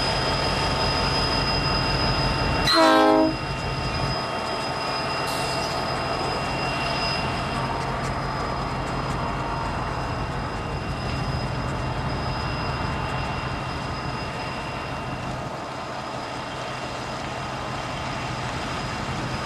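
Union Pacific rotary snow plow train running steadily, with a short, loud train horn blast about three seconds in.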